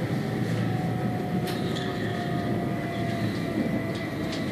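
Steady running noise of a moving passenger train heard from inside the carriage: a low rumble from the wheels on the track with a faint held whine, and a couple of light clicks.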